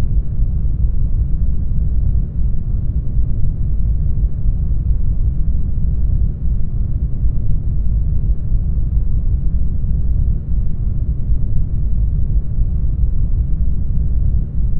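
Brown noise: a steady, deep rushing hiss, strongest in the bass and thinning out toward the treble, with no changes or other sounds in it.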